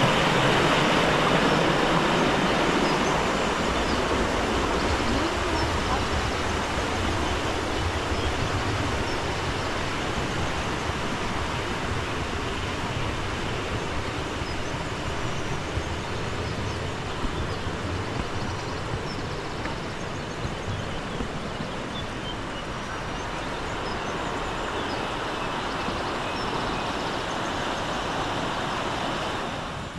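Steady rushing of a fast, rain-swollen stream or river, slowly fading as it is left behind.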